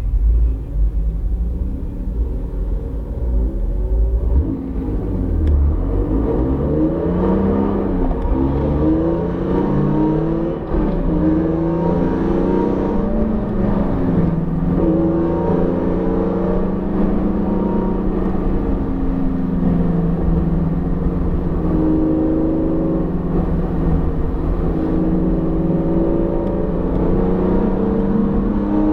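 BMW E46 M3's S54 straight-six, a newly built engine still in break-in, revving up and dropping back repeatedly as the car accelerates through the gears, then running more steadily with smaller rises and falls in pitch.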